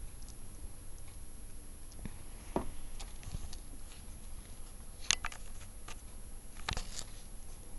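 A few scattered light taps and scratchy clicks over a faint steady background, the sharpest a little after halfway and again near the end.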